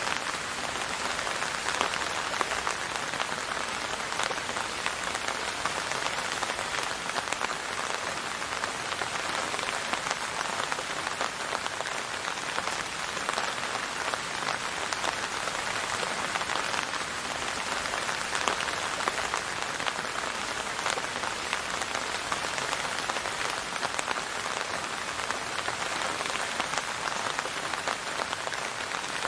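Steady rain falling on a surface, a dense, even patter of many fine drops with no thunder or music.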